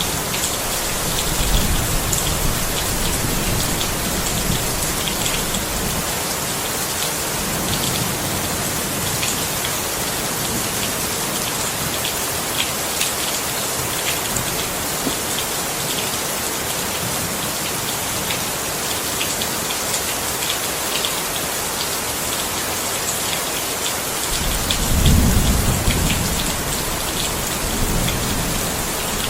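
Steady heavy rain falling, with scattered drop impacts, and low rolls of thunder: one in the first few seconds and a stronger one about 25 seconds in.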